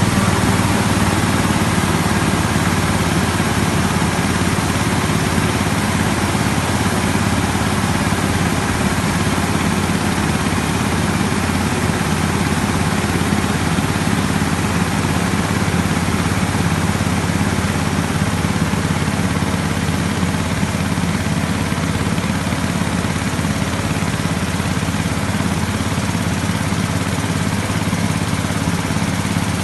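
The diesel engine of a 15 HP Yuvraj tractor running steadily, driving a tractor-mounted air blast sprayer through the PTO, with a steady rush of air from the sprayer's fan over the engine note.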